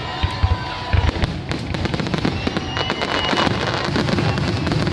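Fireworks going off in quick succession: low booms of bursting shells in the first second, then dense crackling.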